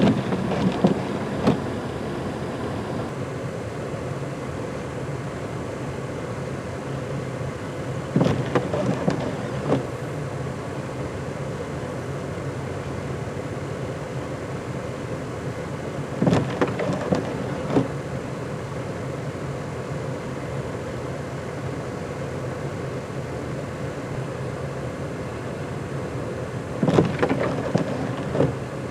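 A vehicle running with a steady rumble and hum, broken four times, about every eight to ten seconds, by a short cluster of knocks and scrapes.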